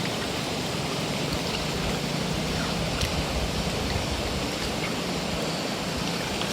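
Steady rush of running water, with a few faint light ticks.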